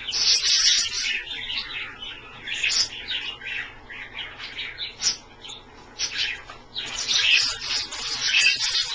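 Pet budgies and cockatiels chirping and chattering, a busy stream of short, high calls in uneven bursts.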